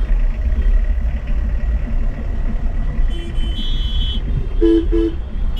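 Low, steady engine and road rumble of a car being driven, heard from inside. Short horn toots from traffic come in about three seconds in and again near the end.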